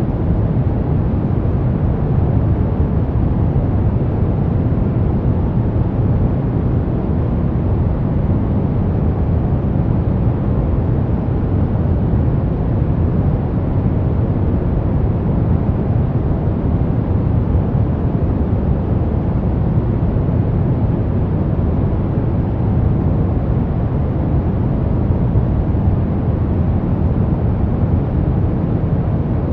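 Brown noise: a steady, even rumbling hiss, strongest in the low end and fading toward the highs.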